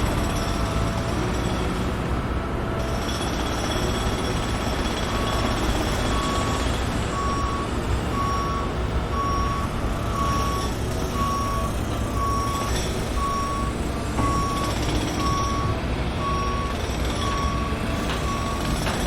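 Reversing alarm on a construction vehicle beeping about once a second, starting about five seconds in, over the steady low rumble of heavy machinery engines.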